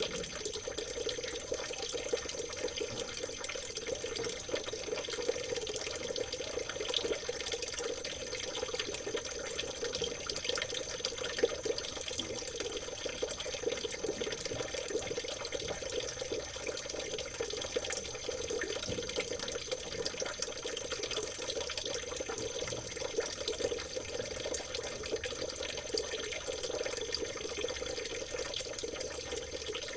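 Steady trickling and babbling of a small stream's water over stones, an even rush full of tiny splashes with no break, and a faint steady high tone underneath.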